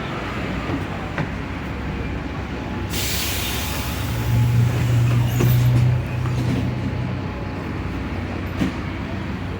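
Mercedes-Benz O500U city bus's OM906LA six-cylinder diesel running steadily. About three seconds in there is a short sharp hiss, then the engine note grows louder for about two seconds before settling back.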